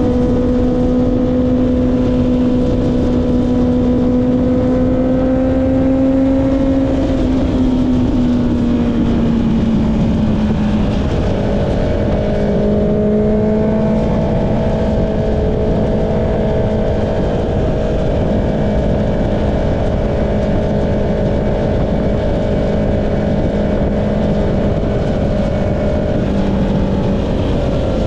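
Honda CB650R's inline-four engine through an Akrapovic exhaust, running at a steady cruise under a rush of wind. Its pitch climbs slightly, then drops as the revs ease off about a third of the way in, and it holds steady at the lower revs.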